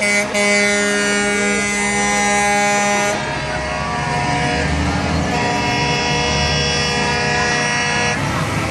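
Truck air horns sounding two long blasts, each about three seconds, with a pause between them filled by the low running of passing truck engines.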